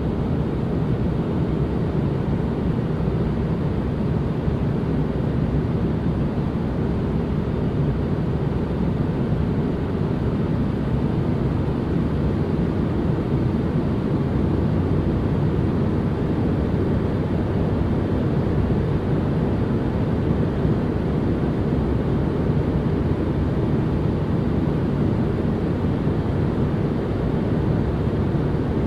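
Steady, unbroken white-noise ambience weighted toward the low end: an even, deep rumbling hiss with no changes.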